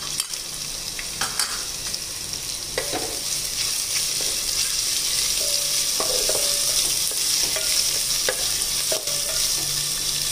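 Sliced onions and green chillies sizzling steadily as they fry in ghee in a pan, stirred with a wooden spatula that scrapes against the pan a few times.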